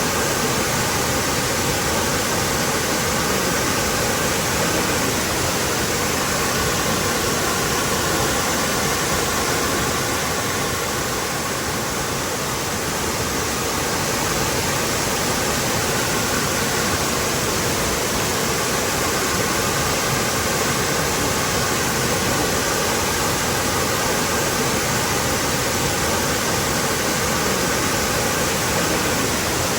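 Waterfall: water pouring and splashing steadily into a pool, a dense even rush.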